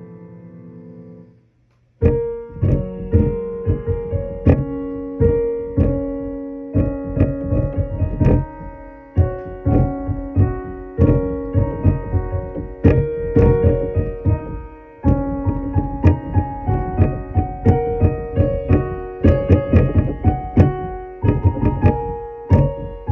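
Electric keyboard with a piano voice played continuously, chords under a melody, each note starting with a low thud. About a second and a half in the sound drops out completely for half a second, then the playing starts again.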